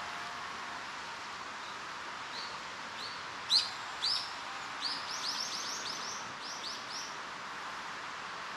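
A small bird calling: a run of short, high chirps that begins about two and a half seconds in and goes on for about four seconds, loudest near the start, over a steady outdoor background hiss.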